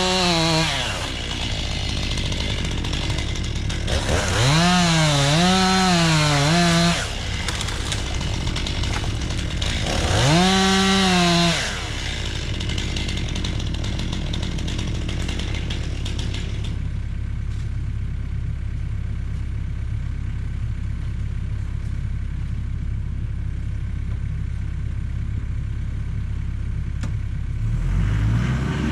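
Chainsaw cutting birch: three bursts at full revs, the pitch wavering as the chain bites, then settling to a steady idle. Near the end a deeper engine starts running.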